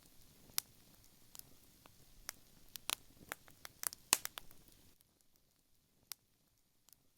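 Wood fire crackling, with irregular sharp pops and snaps of burning wood, thickest in the middle. About five seconds in the soft background hiss drops away, leaving only a few scattered pops.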